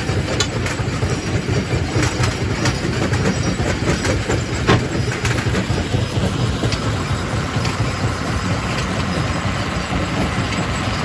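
Quarry primary rock crusher running with a steady heavy rumble, with irregular knocks and cracks of rock breaking in it, more of them in the first half.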